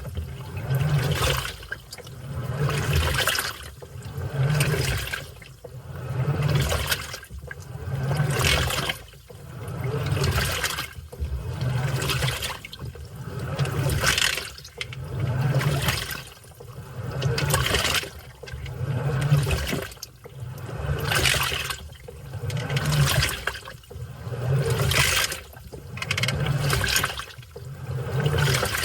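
Washing machine in its wash cycle, the load churning through the water in regular surges about every two seconds, each with a low motor hum as the drum or pulsator turns and reverses.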